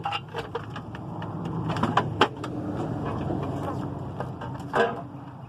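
Metal clanks and knocks, loudest about two seconds in and again near the end, over a steady low mechanical hum, as the old engine is worked free of the truck.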